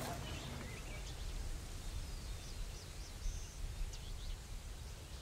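Outdoor ambience: a steady low rumble with several faint, short, high bird chirps, mostly in the first few seconds.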